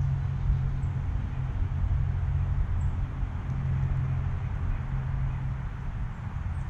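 Steady low hum and rumble of a running motor, its pitch shifting slightly, with a few faint high chirps.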